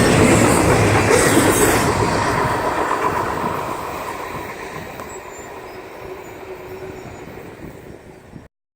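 Freight train rolling past on the rails, its noise fading steadily from about two seconds in as it moves away, then cutting off abruptly near the end.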